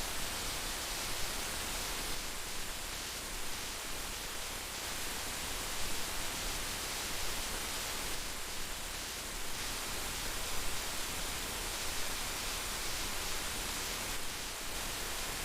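Heavy rain falling, a steady dense hiss with small flickers in loudness.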